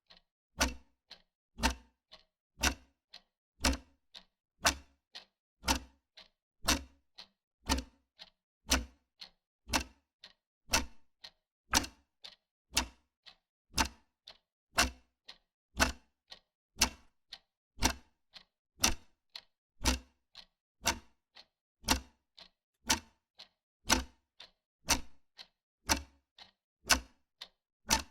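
Wall clock ticking steadily, about two ticks a second, alternating a louder tick with a softer tock.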